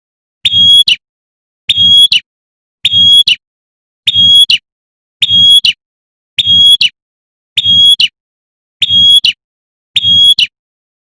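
A female prinia (prenjak) repeats a short, sharp 'tembakan' call about once a second, each call about half a second long and built on a steady high note. The identical calls are separated by complete silence, so the call is a recording played on a loop. It is the call a female uses to summon males.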